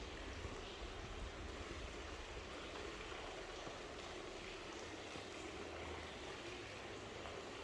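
Steady street ambience: an even rushing noise with a low rumble underneath and no distinct events.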